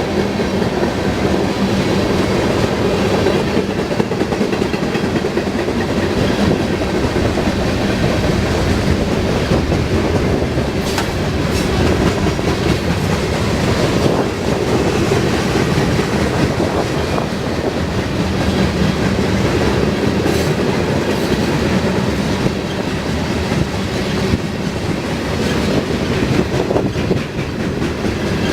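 Railroad cars of a freight train rolling past at steady speed, a continuous rumble of wheels on rail with occasional sharp clicks as the wheels cross rail joints.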